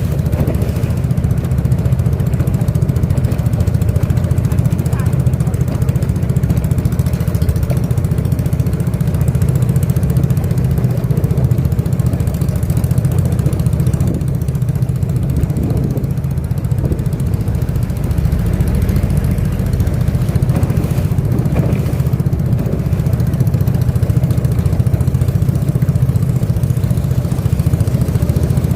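Motor of a boat running steadily under way, a constant low drone that holds at the same level throughout.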